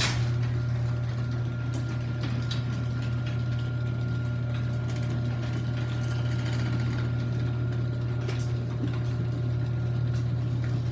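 Chamberlain garage door opener raising the door: the motor starts with a click and runs as a steady hum with a faint high whine.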